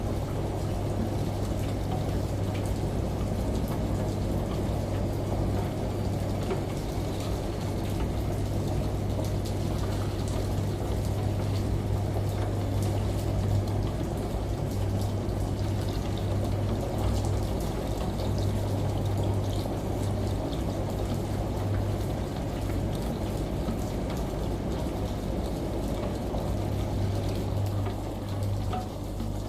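Rain and running shower water mixed over the low, steady hum of a washing machine, with no change throughout.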